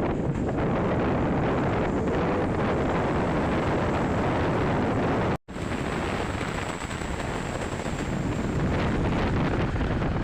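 Loud wind buffeting the microphone over steady road and vehicle noise, cut off abruptly for a moment about five and a half seconds in.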